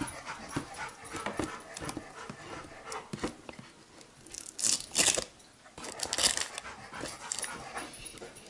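Packaging being pulled off a boxed jump starter: irregular clicks and handling noises, with two louder bursts of crinkling plastic about halfway through and again a second later.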